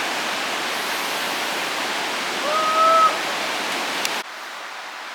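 Steady rush of a mountain stream or waterfall, an even hiss of water. A short pitched vocal call sounds about two and a half seconds in, and the water noise drops suddenly to a quieter level a little after four seconds.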